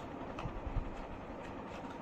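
Toy vehicles being handled: a few light clicks and a couple of low thumps about halfway through, over a steady background hiss.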